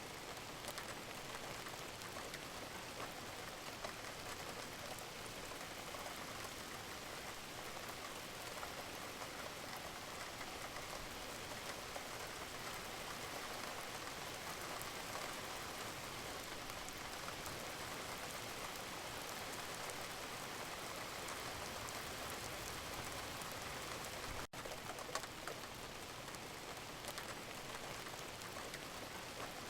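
Steady rain falling: an even hiss with a fine patter of drops. It cuts out for an instant about 25 seconds in.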